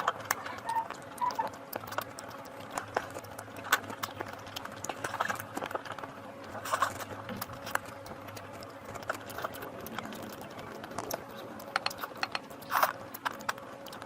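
Close-up eating sounds: irregular wet clicks and smacks of chewing and mouthfuls, with a few louder smacks, over a faint steady hum.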